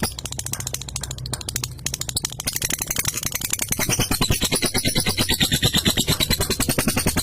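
Lovebird singing its long, rapid chattering trill ('ngekek'), a fast unbroken run of sharp chirps. It is weaker for the first couple of seconds and fuller from about two and a half seconds in.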